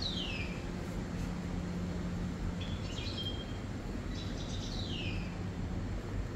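A songbird singing three short phrases, each a quick cluster of high notes, two of them ending in a falling whistle, over a steady low hum of background noise.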